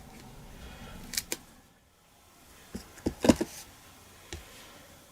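A few light taps and clicks of hand stamping: a clear photopolymer stamp inked and pressed onto cardstock, with a cluster of the sharpest knocks a little past the middle.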